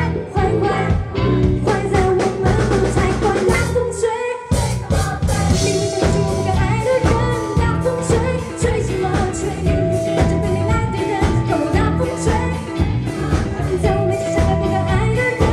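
Live band playing a pop-rock song with a drum kit beat and held melody notes, with a brief break about four seconds in.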